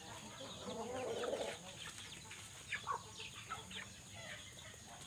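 Short, high animal calls, chirps and clucks scattered irregularly, with a denser, lower burst of calling about a second in.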